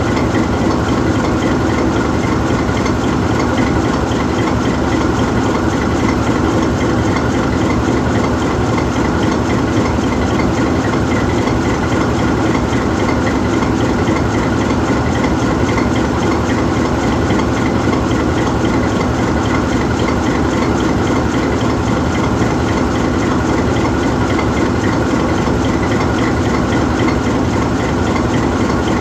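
GE U20C diesel-electric locomotive's V12 diesel engine idling steadily while the locomotive stands parked.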